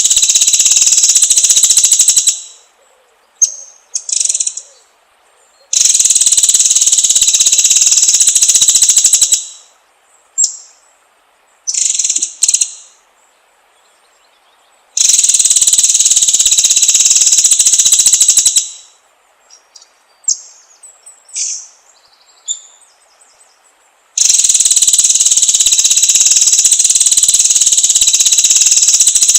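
White-rumped shama (murai batu) singing in long, loud bursts of rapid-fire high notes, each about three to four seconds long, with short single high notes in the pauses between bursts.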